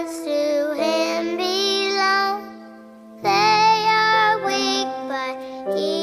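A song with a high, child-like singing voice holding long notes in phrases, over a steady accompaniment, with a short pause about halfway through.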